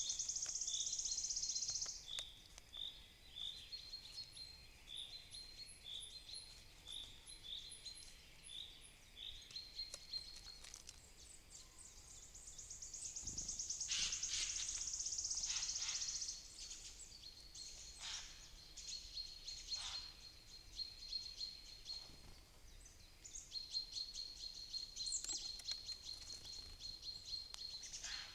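Wild songbirds singing in woodland: a long, fast, high trill twice, once at the start and again about halfway through, with repeated short chirps from other birds throughout.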